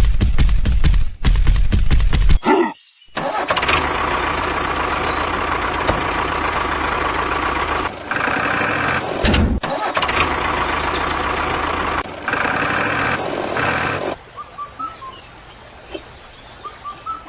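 A motor vehicle engine starting with a loud, rapid chugging, then running steadily for about ten seconds before dropping away to a much quieter background with faint chirps near the end.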